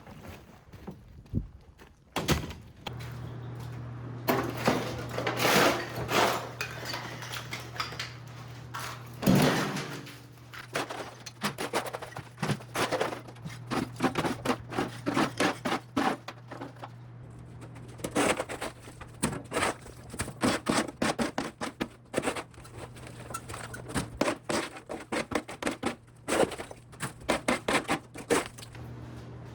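Demolition work going on: many knocks and clattering impacts in irregular flurries, over a steady low hum that starts about three seconds in.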